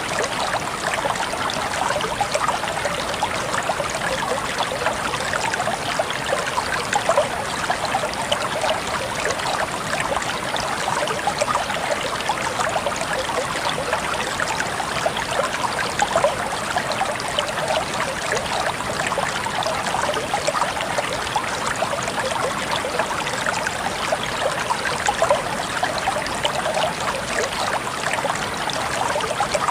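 A shallow stream of water flowing and burbling steadily, a constant splashy rush with many small bright trickles.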